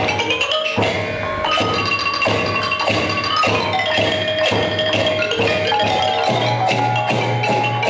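Thai piphat ensemble playing: struck mallet-percussion melody on ranat xylophone and gong circle, with held notes and a steady beat of percussion strokes.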